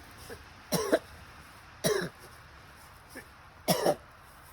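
A man coughing three times, each a short double cough, about a second apart.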